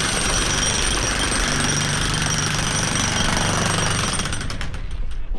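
A power tool running with a loud, rapid rattle and a steady high whine, dying away near the end.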